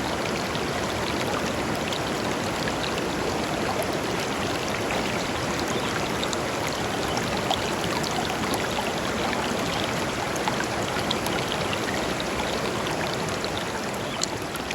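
Small river running over stones: a steady rush of flowing water, flecked with small splashes and drips, beginning to fade out at the very end.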